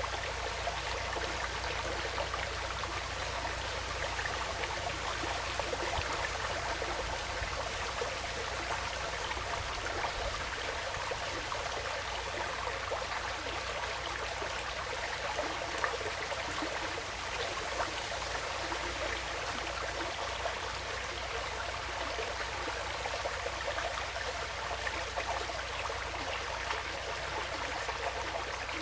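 Woodland stream flowing and trickling steadily.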